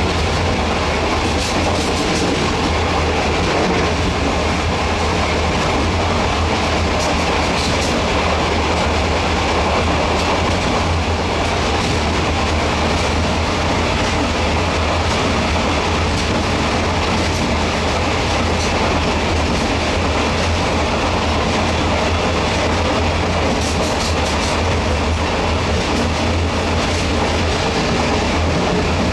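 Running noise heard from inside a moving passenger train: a steady low rumble of wheels on rail, with a few short clusters of clicks over the rail joints.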